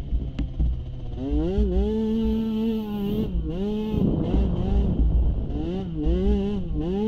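Small youth ATV engine being ridden. It revs up about a second in, holds, then eases off and picks up again several times as the throttle is worked, over a low rumble.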